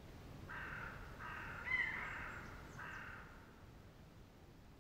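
Birds calling: three short, harsh calls, with a sharp downward-sliding call between the second and third that is the loudest sound.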